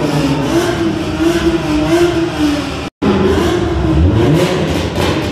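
Nissan 370Z's V6 exhaust running at low revs as the car rolls away. After a cut about three seconds in, a Toyota GR Supra accelerates away, its engine note rising.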